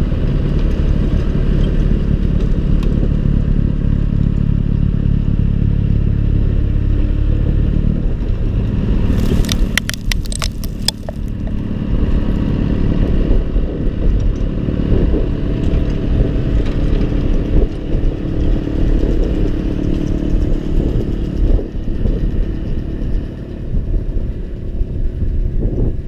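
John Deere 6110R tractor's four-cylinder diesel running steadily while driving a snow blower. The engine note shifts about eight seconds in, and a quick run of sharp clicks and rattles comes about ten seconds in.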